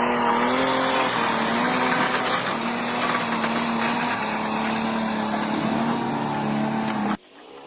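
Vehicle engine running, its pitch rising briefly at the start and then holding steady; it cuts off suddenly about seven seconds in.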